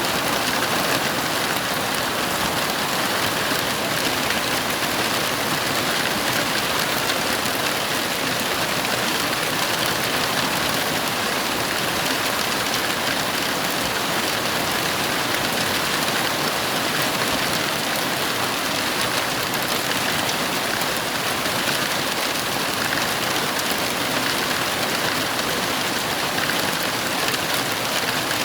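Heavy rain falling steadily: a dense, even hiss with no breaks and no thunderclaps.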